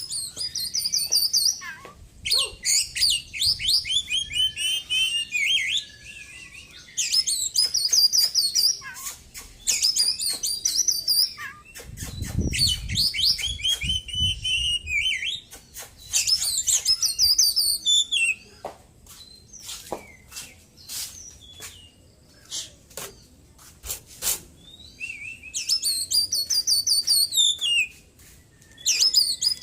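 Oriental magpie-robin (white-breasted 'poci' kacer) singing loud, rapid phrases packed with mimicked small-bird calls, in bursts of a few seconds with short pauses and sharp clicking notes between them. It is the bird's full song after its moult. A brief low rumble sounds in the middle.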